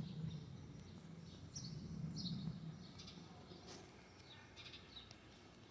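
Faint small-bird chirps, short high calls scattered throughout, over a low hum that fades out about halfway through.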